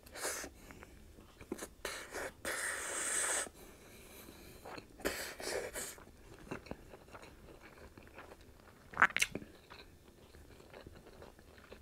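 Close-miked chewing of crispy fried pork chop and rice, with a few breathy bursts in the first few seconds as air is pushed through the mouth around a mouthful of rice that is too hot.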